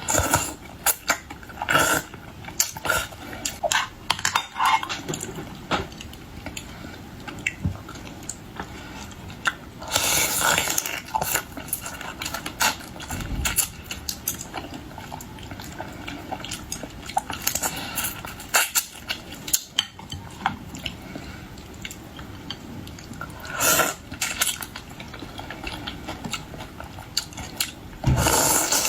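Close-miked eating of raw marinated mud crab: wet chewing and sucking with many sharp clicks and cracks of shell. There are louder bursts about ten seconds in and again near the end.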